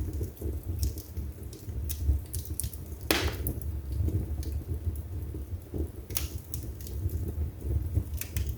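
Wood fire burning in a fireplace, crackling with scattered sharp snaps over a low rumble of flame; a louder pop about three seconds in, and another a little before six seconds.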